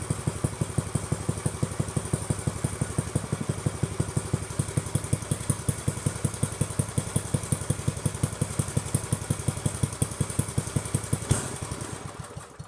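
Homemade go-kart's small single-cylinder engine running at a steady pulsing idle without revving up; its throttle linkage is not working. About eleven seconds in there is a sharp pop, and the engine winds down and stops.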